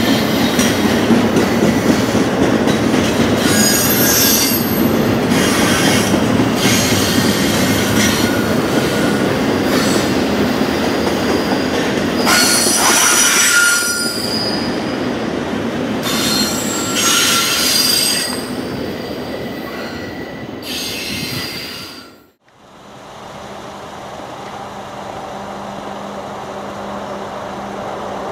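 Container freight train rolling past on a curve: a steady rumble of wheels on rail, with high-pitched wheel squeals coming and going, typical of flanges grinding through a curve. About twenty seconds in the sound cuts off suddenly and gives way to a quieter steady hum.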